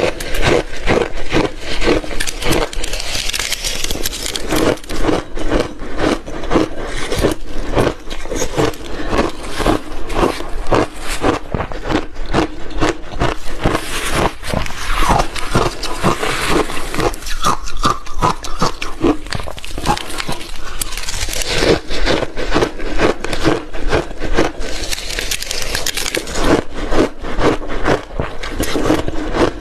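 Close-up chewing of milky shaved ice: a dense, continuous run of crunches, bites and scraping crackles as the frozen ice breaks between the teeth.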